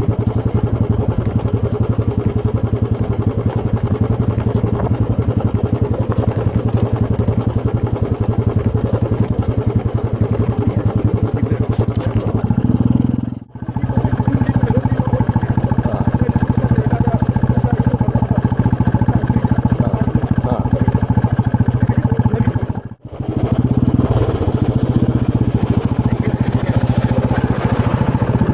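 Motorcycle engine running steadily while riding. The sound drops out abruptly twice for a moment, about halfway through and again about three-quarters through.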